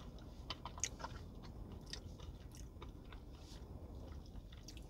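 A person chewing and biting into a piece of chicken on the bone, close to the microphone: faint mouth sounds with small irregular clicks.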